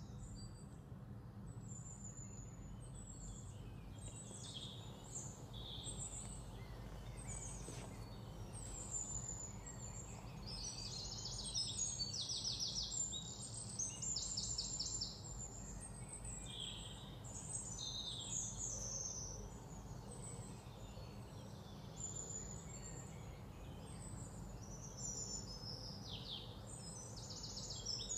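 Small birds chirping again and again, with bursts of rapid trilled calls, busiest midway and near the end, over a steady low hum.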